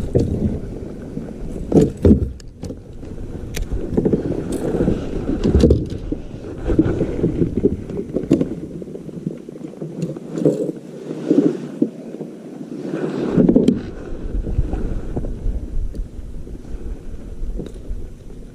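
Irregular splashing and knocking of water against a kayak, with wind buffeting the microphone and a few sharp clicks, as a hooked largemouth bass is brought alongside.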